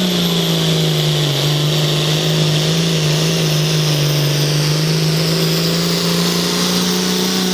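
Pulling vehicle's engine running hard and steady under load during a pull, with a thin high whine held above it. The engine note dips briefly about a second in.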